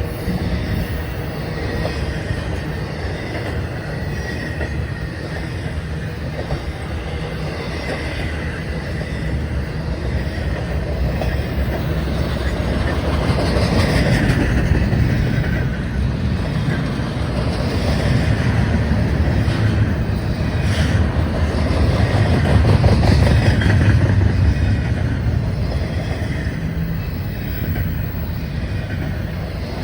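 Norfolk Southern freight train rolling past: a steady rumble of steel wheels on rail with a few sharp clicks from the rail joints, swelling louder around the middle.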